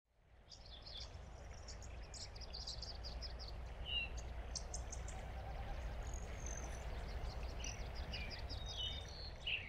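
Nature ambience of small birds chirping and trilling over a steady low rumble, fading in over the first second.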